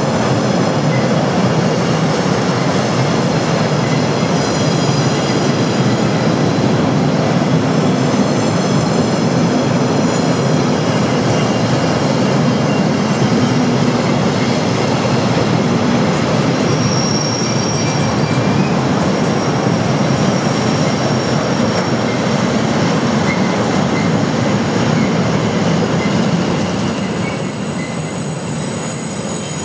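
Freight train of covered double-deck car-carrier wagons rolling past: a steady rumble of wheels on rail, with thin, high wheel squeals that come and go.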